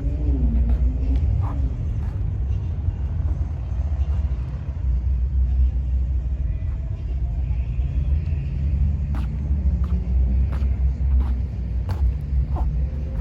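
Deep, steady rumble of a car engine running at idle, with faint voices in the background.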